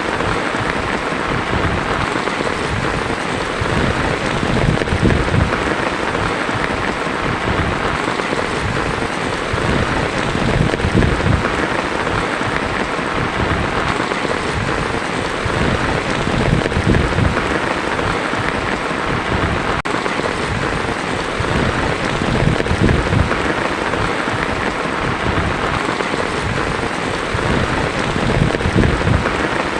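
Heavy rain pelting a tin roof: a dense, steady hiss of drops with an uneven low rumble beneath it.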